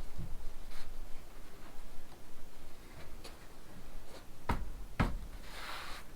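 Light scattered clicks and knocks, with two sharper knocks about half a second apart past the middle, then a short rustle near the end.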